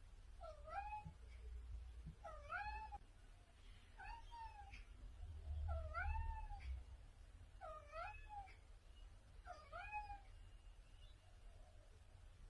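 A cat meowing over and over: six meows about every one and a half to two seconds, each rising then falling in pitch.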